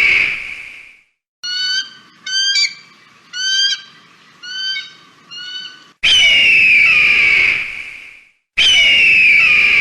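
Bird-of-prey calls: a long harsh scream fading out, then a run of six short, sharp, high calls over about four seconds, then two long harsh screams of about two seconds each, each sliding slightly down in pitch.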